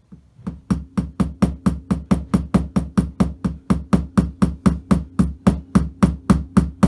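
Small hammer tapping the back of a sturdy blade to cut through a thin carbon fibre strip, about five quick, even taps a second, starting lightly and quickly settling to full strength.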